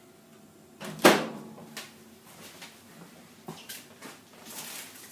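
A microwave oven door clunking open about a second in, followed by a few lighter clicks and knocks.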